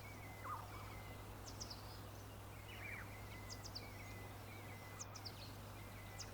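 Faint background birdsong from a nature-sound track: short high chirps repeating every second or two, with a few lower falling calls, over a steady low hum.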